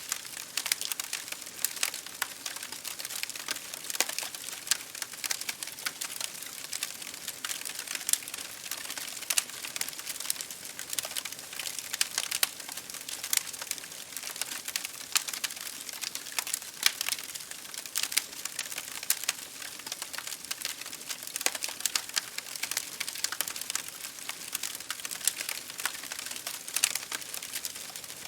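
Wood fire crackling in a fireplace, dense irregular pops and snaps, over an even patter of rain against a window pane.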